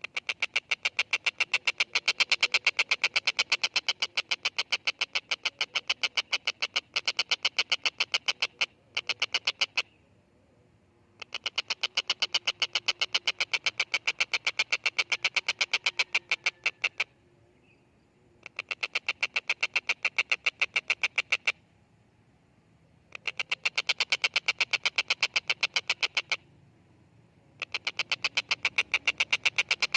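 Stork-billed kingfisher (tengkek buto) giving a rapid, rattling chatter of evenly spaced notes. It comes in bouts of a few seconds separated by short pauses: the longest runs about nine seconds, then four more bouts follow, each broken off by a gap of one to two seconds.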